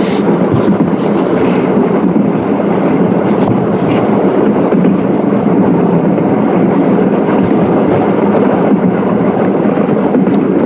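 Train running along the rails: a steady, dense rumble, with a couple of brief clicks about three and a half and four seconds in.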